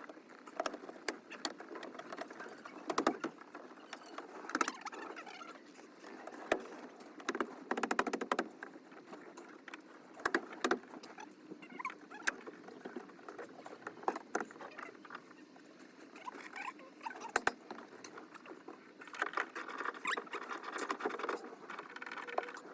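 Irregular small clicks, taps, scrapes and rattles of hands working on small parts, with a few sharper knocks and a busier stretch of rustling and clicking near the end.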